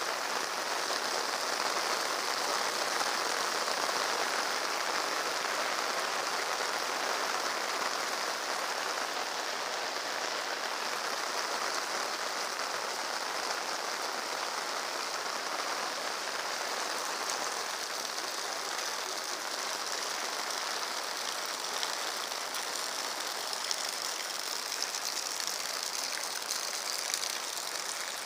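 Steady downpour of rain falling onto a paved street and roadside foliage, an even hiss without letup.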